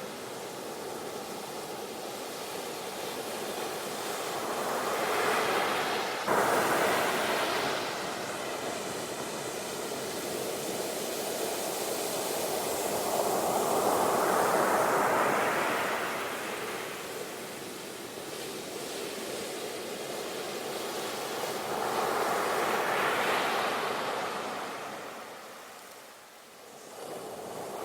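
Sea waves breaking and washing up the shore: slow surges of rushing water that swell and fade about every eight or nine seconds, one breaking with a sudden crash about six seconds in.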